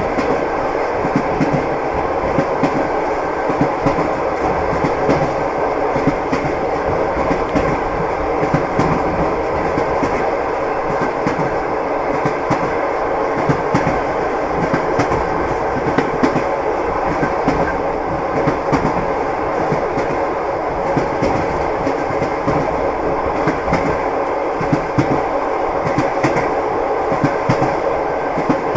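Railway carriage wheels clicking over rail joints, with the steady rumble of a moving train.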